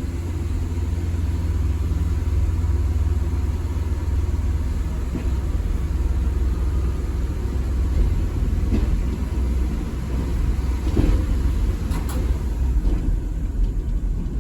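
Steady low rumble of a vehicle moving off, heard from on board, with a few faint knocks near the end.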